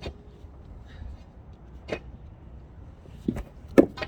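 Heavy stones being shifted and rolled, knocking sharply against other stones: about five separate knocks, the loudest near the end.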